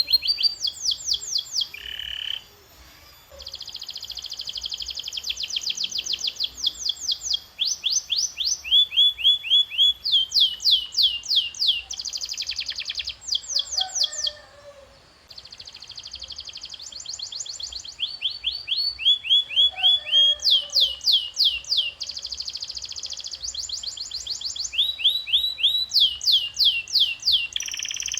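Domestic canary singing a long song made of rapid trills and runs of quickly repeated falling notes, broken by two brief pauses.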